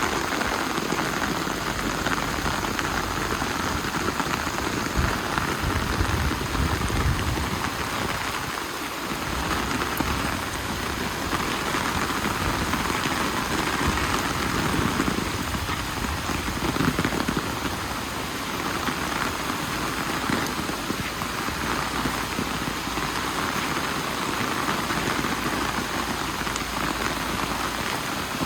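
Steady rain falling, heard as an even hiss that holds its level throughout.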